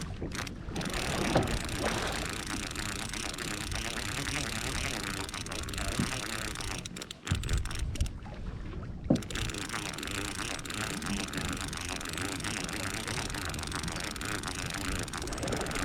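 Steady wind and sea noise on an open fishing boat, with a couple of brief knocks.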